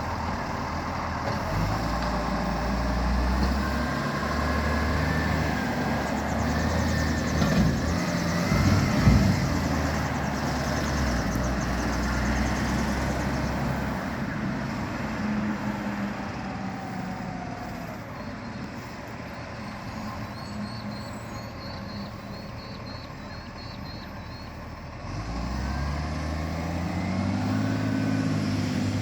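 Garbage truck's diesel engine running, loudest in the first half with a louder, rougher stretch about eight seconds in, quieter in the middle, then revving up and easing off again near the end.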